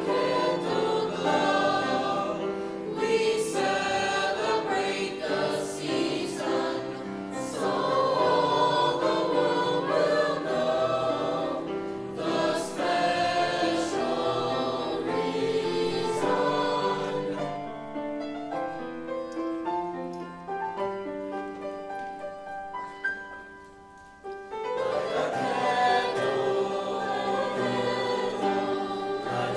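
High school choir singing a holiday song, many voices in harmony; the sound grows softer, nearly stops about twenty-four seconds in, then the full choir comes back in.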